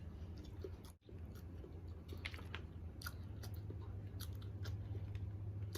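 Close-miked chewing and biting of seafood, with scattered wet mouth clicks and crackles. There is a brief break in the sound about a second in.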